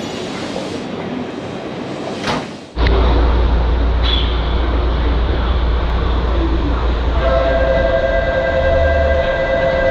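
Train running on the rails with steady rumbling noise. About three seconds in the sound changes abruptly to a deep, heavy rumble, and a steady tone at several pitches comes in about seven seconds in and holds.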